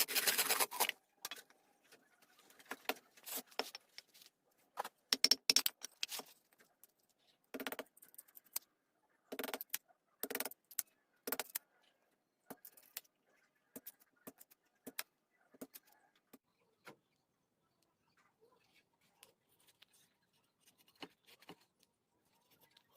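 A short burst of steady noise cuts off in the first second. It is followed by irregular light clicks and knocks of small hard parts being handled, some in quick clusters and others spaced a second or more apart.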